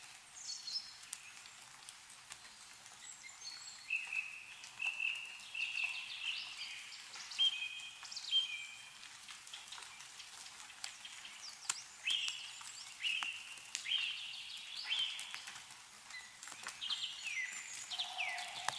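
Songbirds chirping and calling in short, repeated notes, several sliding down in pitch, with scattered drips of snowmelt falling from the trees.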